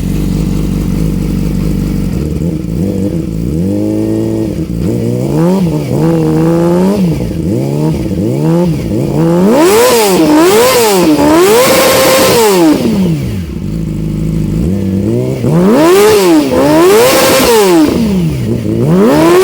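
2008 Yamaha R6's inline-four engine through a Two Brothers exhaust with no catalytic converter, idling steadily, then revved over and over in quick blips that rise and fall. The revs climb highest about halfway through and again near the end; the exhaust is loud.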